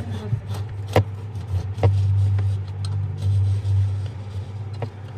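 A steady low electric hum, louder in the middle, with a few sharp clicks or knocks: one at the start, one about a second in, one near two seconds and one near the end.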